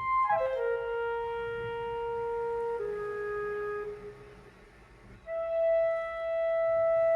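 Background music: a solo woodwind, flute-like, playing slow, long held notes. It opens with a quick falling slide, pauses briefly in the middle, then holds one long note.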